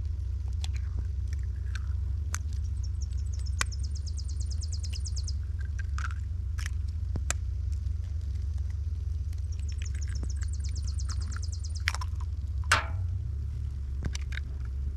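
A small songbird's fast, dry trill, each run about two seconds long, repeated three times over a steady low rumble, with scattered clicks and knocks.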